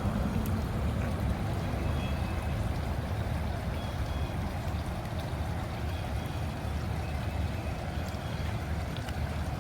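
Storm runoff rushing steadily down a rocky gully and over a small waterfall during heavy rain, a continuous rumbling wash of water.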